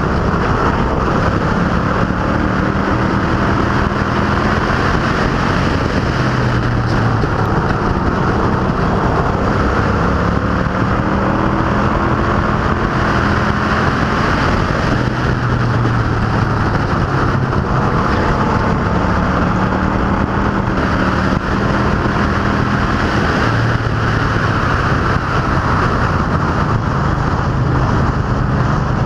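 Race cars running laps on a short oval, several engines at once, their pitch rising and falling as they come and go.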